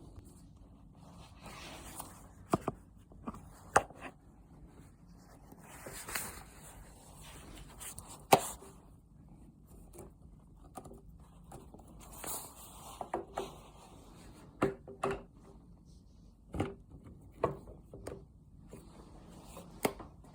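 Handling noises: about a dozen scattered sharp clicks and knocks, the loudest about eight seconds in, with a few brief rustles between them.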